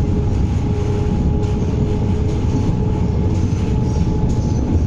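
MTR East Rail Line MLR electric train running at speed, heard from inside the carriage. It makes a steady low rumble of wheels on track with a faint steady tone running through it.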